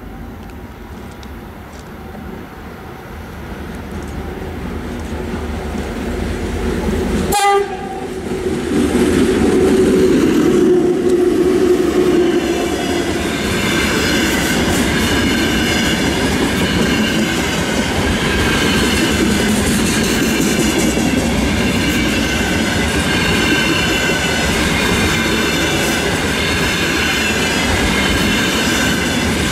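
VL10U two-section DC electric locomotive hauling a container freight train, approaching and passing close by. The rumble grows over the first seven seconds, with a brief break in the sound about seven seconds in; it is loudest as the locomotive goes by, between about eight and twelve seconds in. After that the loaded container flatcars roll past with steady wheel clatter and a faint high ringing.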